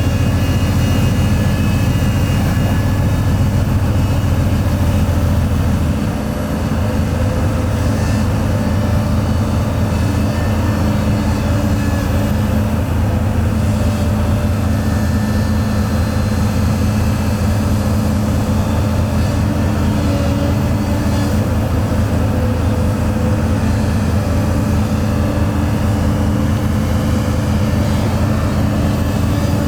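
Heavy diesel engine of construction machinery running steadily under load, its level easing slightly about six seconds in.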